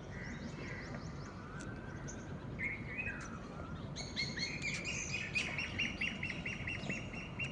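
Wild birds calling outdoors: a few scattered chirps and short whistled glides, then, about four seconds in, a fast, even run of repeated sharp notes, several a second, that keeps going.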